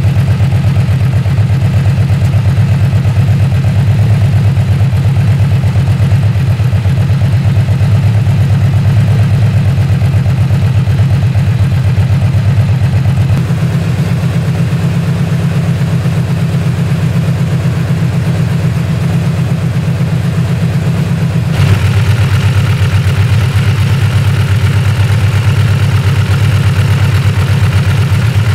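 Yamaha V-Max 1700's V4 engine idling steadily through an aftermarket Prunus exhaust, a deep low burble. About thirteen seconds in it gets slightly quieter, and about twenty-one seconds in it suddenly gets louder and brighter.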